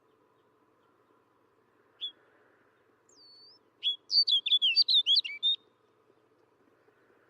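Snow bunting singing: a single short note, a thin whistle, then a quick, warbling phrase of rapid notes lasting under two seconds.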